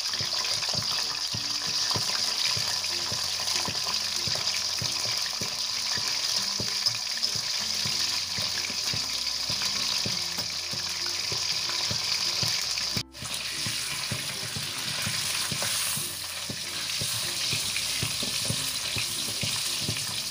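Thin-sliced beef frying in hot oil in a wok: a steady sizzle with small crackles, briefly cut off once a little past halfway.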